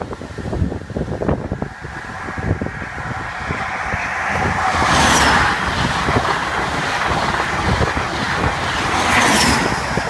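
Passenger train passing at speed close by: a rush of wheels on rail builds over the first few seconds, peaks about halfway, and stays loud as the coaches go past.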